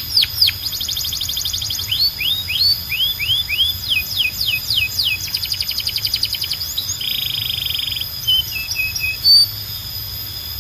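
Canary singing a varied song made of rapid repeated phrases: fast falling whistled sweeps, quick high trills, and a buzzy rolled trill about seven seconds in. The song thins to a few scattered notes near the end.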